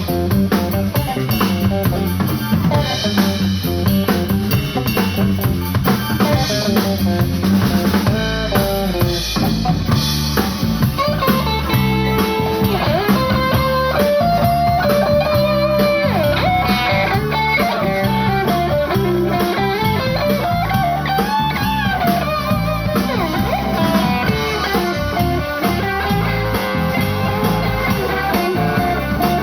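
Live blues-rock band playing: electric guitar over a drum kit and bass, with a gliding lead line coming in about a third of the way through.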